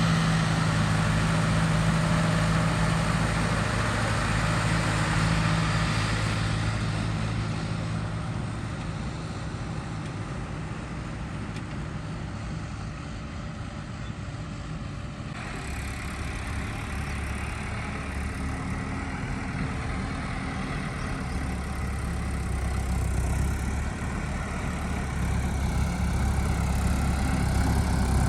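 Tractor diesel engine running steadily. It grows quieter through the middle, changes abruptly about fifteen seconds in, then grows louder again toward the end.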